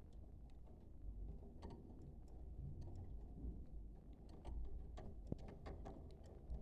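Budgerigars making short, scattered clicks and chirps at an irregular pace, fairly faint, over a low steady hum.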